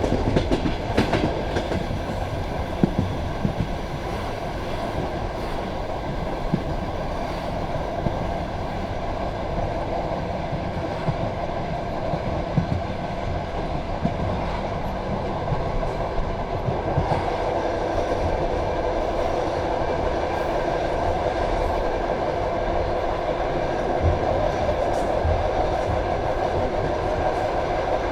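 Passenger train carriage running along the track, heard from inside the coach: a steady rumble of wheels on rail with occasional sharp clacks over joints. It grows a little louder about two-thirds of the way through.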